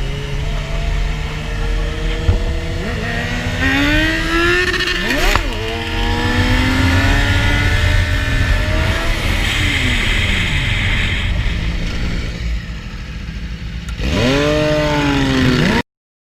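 Sport-bike engines revving up and down through the gears, their pitch rising and falling, with several engines at once, over heavy wind rumble on the microphone. It ends with a final rev that cuts off suddenly. The nearest engine is plausibly the rider's own Suzuki GSX-R 750 inline-four with an Akrapovic exhaust.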